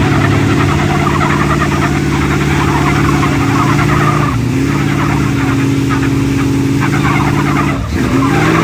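Pulling truck's engine running hard at high revs under heavy load. Its pitch dips briefly about four seconds in, falls again near the end, then climbs back up.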